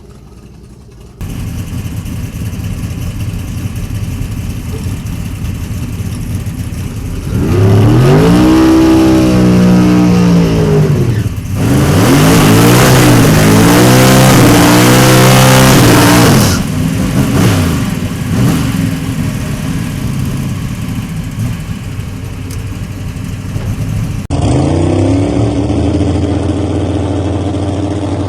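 Twin-turbo drag-racing Chevelle's engine under hard acceleration. Its pitch climbs and falls in sweeps through the loudest stretch, between about 7 and 16 seconds in. It runs quieter before and after, with abrupt jumps where the footage changes.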